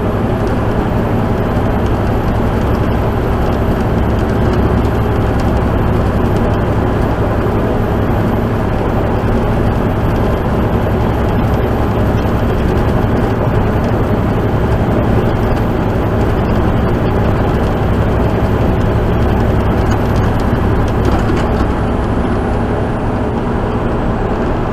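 Steady engine drone and road noise inside a moving vehicle's cab, holding an even level throughout.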